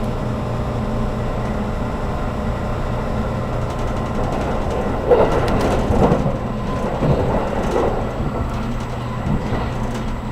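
Cabin noise of a JR Kyushu 783 series limited express train running: a steady low rumble of wheels and traction equipment, with a louder, rougher stretch from about five to eight seconds in.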